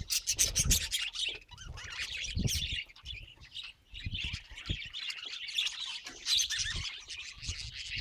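Budgies chattering and squawking in rapid runs of calls, with a few dull bumps among them.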